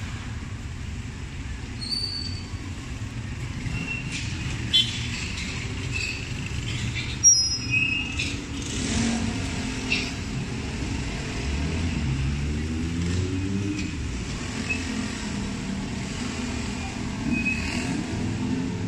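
Motor vehicle engines and road traffic running with a steady low rumble, one engine rising in pitch partway through, with a few sharp clicks and short high squeaks.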